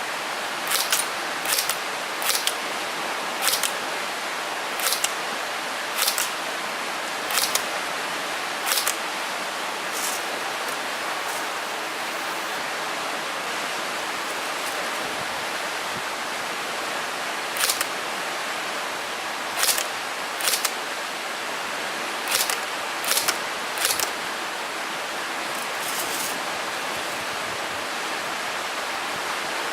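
Airsoft gun firing single shots: sharp clicks about once every second or so, pausing for several seconds midway, then resuming more irregularly. A steady hiss runs underneath.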